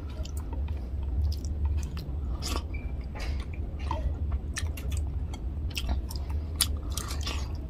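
Close-miked wet chewing of a mouthful of rice and fish curry, with irregular lip smacks and mouth clicks. A steady low hum runs underneath.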